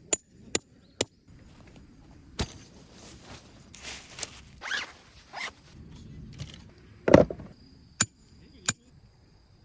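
A zipper pulled open or shut in several quick strokes through the middle, among sharp clicks and knocks of handling near the start and end.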